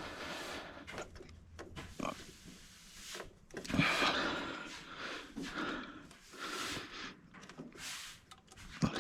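A man grunting and breathing hard with effort while working a large industrial push-lock hose off its fitting, with a few small knocks.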